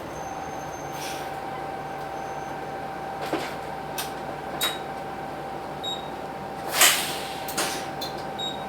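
Hino Blue Ribbon City bus's P11C diesel idling, with a steady thin tone that comes on at the start and holds. Over it come several sharp clicks and, about seven seconds in, a loud short hiss-like burst, which fits the bus's door or air mechanism.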